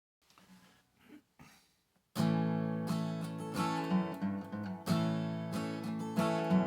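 Strummed acoustic guitar playing a song's intro, starting abruptly about two seconds in after a few faint soft sounds.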